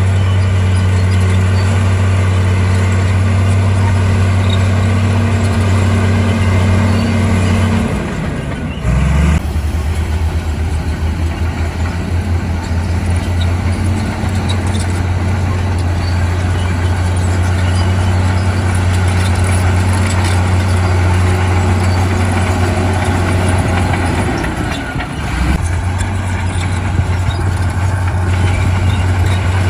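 Bulldozer's heavy diesel engine running hard with a steady low drone. Its note drops and falters twice, about eight seconds in and again near twenty-five seconds, then picks back up.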